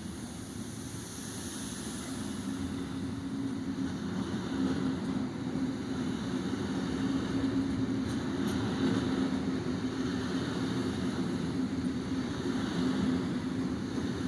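Intermodal freight train of pocket wagons carrying curtain-side semitrailers rolling past close by: steady noise of steel wheels on the rails with a steady hum, growing louder over the first few seconds and then holding.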